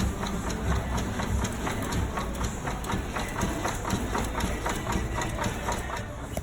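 Ford Taurus engine idling with a rapid clattering rhythm running through it, the sound of a car sitting on bad motor mounts.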